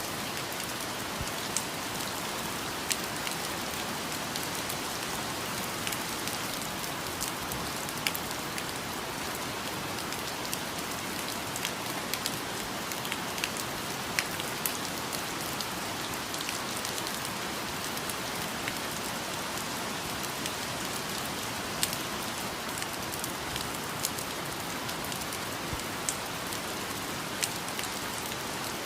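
Steady rain falling in a rainforest, a constant hiss with scattered sharper drips and patters.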